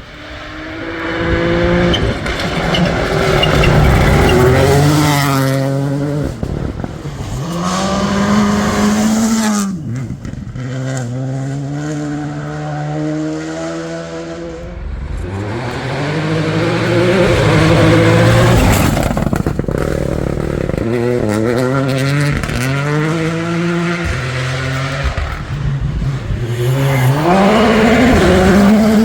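Rally cars driven hard at speed, one after another, the engines revving high. Their pitch climbs and breaks off again and again as the drivers change gear, and the sound swells and fades as each car goes by.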